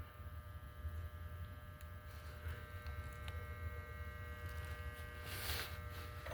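Steady low machine hum with several faint steady tones above it, and a short rush of noise about five seconds in.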